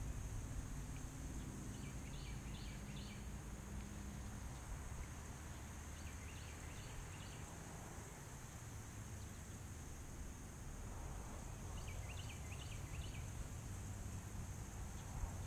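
A bird singing a short phrase of three or four quick notes, three times about five seconds apart, over a steady high drone and a low rumble.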